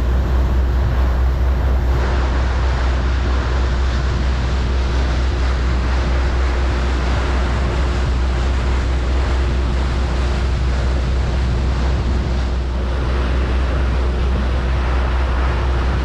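Ferry's engines running in a steady low drone with a faint constant tone above it, under wind and rushing water.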